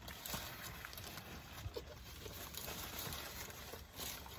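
Faint chewing of a crispy chicken sandwich: small wet mouth clicks and crunches, with a light crinkle of its paper wrapper.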